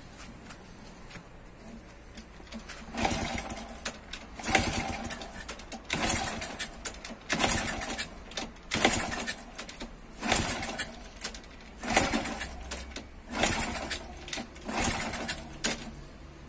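Old scrap motorcycle engine, primed with brake cleaner spray, being turned over in about nine short bursts about a second and a half apart: repeated attempts to start it.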